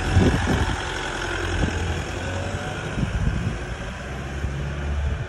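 Toyota Prado 150's D4D turbodiesel engine running steadily at low speed, with a few low knocks.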